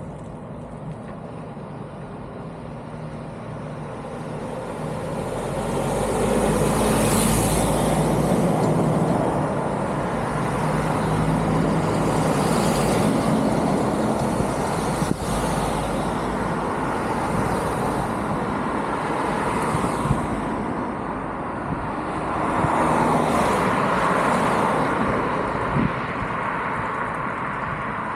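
Road traffic noise: a steady rush of tyres and engines that grows louder over the first few seconds, with vehicles swelling past several times.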